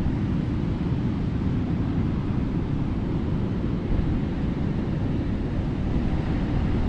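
Strong wind buffeting the microphone in a steady low rumble, over the wash of heavy surf.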